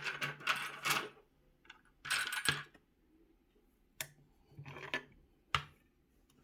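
Small metal clinks, rattles and sharp clicks from a brass mortise lock cylinder being handled with its key and tools: a few short rattling bursts, then two sharp single clicks with quiet gaps between.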